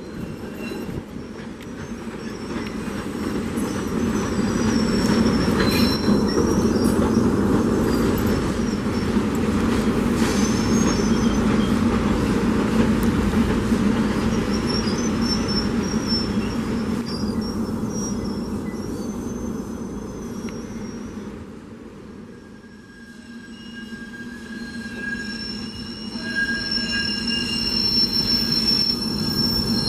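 SEPTA electric commuter trains running through the station: a steady rumble of wheels on rail with high-pitched wheel squeal. It fades about two-thirds through, then builds again as a Silverliner IV approaches on the curve with its wheels squealing in several high tones.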